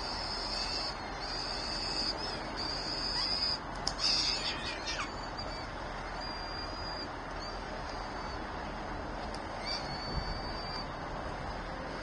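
Bird calls at a nest: a series of thin, high-pitched notes, each held at a steady pitch for up to about a second. Four come close together in the first half, then a few fainter ones follow, over a steady background hiss.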